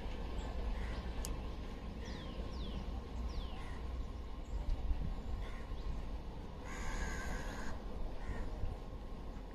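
Birds calling: short chirps repeating every second or so and a few falling whistled notes, then one harsh call lasting about a second near the end, over a steady low rumble.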